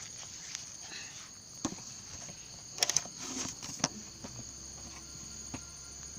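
A few light clicks and knocks from handling a bicycle's rear derailleur and gears, over a steady high-pitched background drone.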